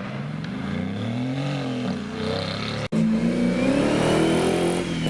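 A car engine revs up and drops back, then after an abrupt cut about three seconds in, a louder car engine pulls away with its pitch climbing steadily as it accelerates.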